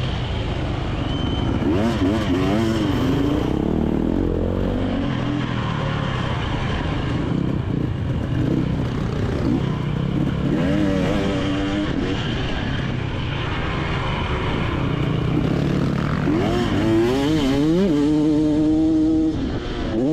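Two-stroke motocross bike engine heard on board, revving up and falling back again and again as the throttle is worked and the gears change around the track.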